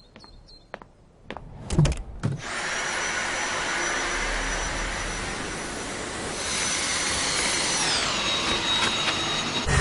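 A few clicks and knocks, then a Dyson V8 cordless stick vacuum, driven by its V8 digital motor, starts and runs with a steady rush of air and a high whine. About eight seconds in, the whine drops to a lower pitch.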